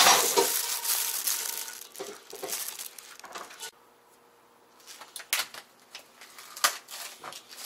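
Thin plastic grocery bag rustling and crinkling as hands rummage in it, loudest over the first second or so, then lighter scattered rustles and clicks after a short quiet pause near the middle.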